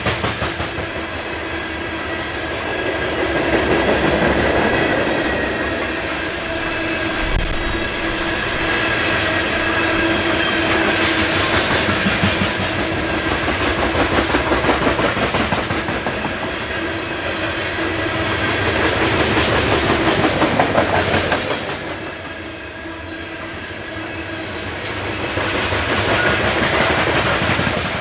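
Coal hopper cars of a freight train rolling past, their wheels clattering over the rail joints in a steady clickety-clack that swells and fades as the cars go by.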